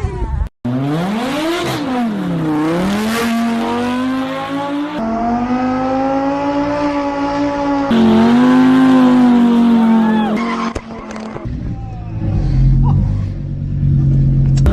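Supercar engines revving, the pitch swooping down and up and then holding high, with tyres squealing; the sound changes abruptly a few times.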